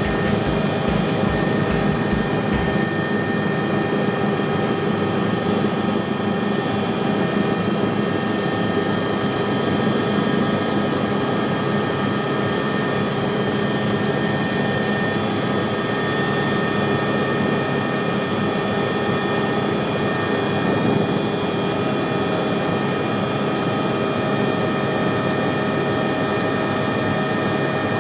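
Helicopter running steadily, a high steady turbine whine over the rotor and engine noise. A low rapid thudding in the first few seconds drops away after that.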